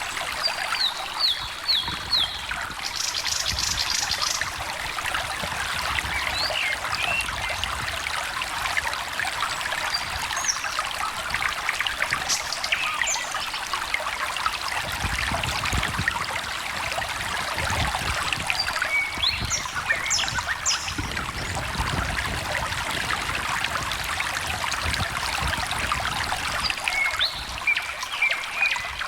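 A small stream trickling steadily, with songbirds calling now and then over it: a few quick high notes about a second in, a short buzzy trill around three seconds, and more brief high notes around twenty seconds and near the end.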